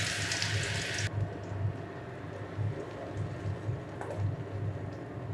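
Chopped onion sizzling in hot mustard oil in a kadai, the hiss cutting off abruptly about a second in. After that it is much quieter, with a low hum and a light scrape of a spatula against the pan around four seconds in.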